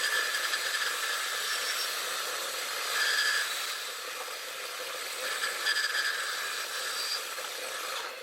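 Metal lathe turning a metal workpiece while a homemade radius-cutting tool, swung by hand, cuts an internal arc: a steady hissing cutting noise with a high whine that comes and goes three times.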